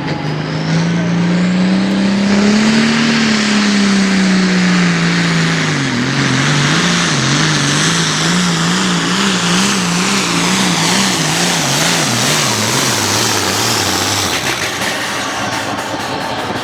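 Modified diesel farm tractor running flat out on a pull: the engine pitch climbs, sags, then wobbles up and down about twice a second as it labours under the sled, falls away and cuts out near the end.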